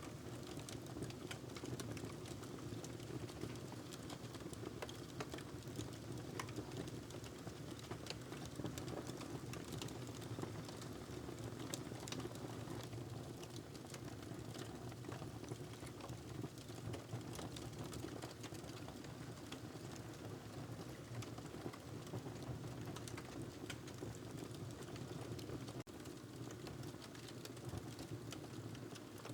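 Wood fire crackling in a fireplace: a steady low noise of burning with frequent small sharp pops and snaps.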